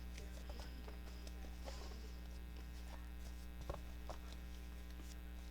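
Steady electrical mains hum, with faint rustling and light taps of paper pages being handled and lined up; one sharper tap a little past halfway.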